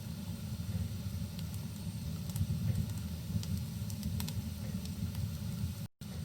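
Wood fire crackling in a fireplace: scattered sharp pops over a steady low rumble. The sound cuts out for a split second just before the end.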